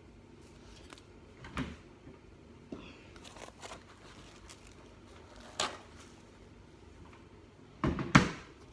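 A few sharp knocks and clatters of things being handled and set down on a kitchen bench, the loudest two close together near the end, over a faint steady hum.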